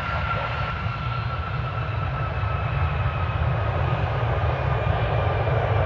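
Jet airliner's engines running, a steady rumble under a high whine that slowly falls in pitch, growing louder.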